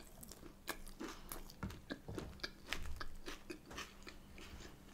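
A person chewing a mouthful of breaded plant-based chicken-style burger with lettuce and onion: irregular crunching and mouth clicks.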